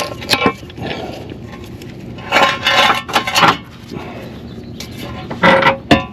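Metal tools and parts clinking and clattering as they are handled under the car, in several short bursts, the busiest about two seconds in and near the end.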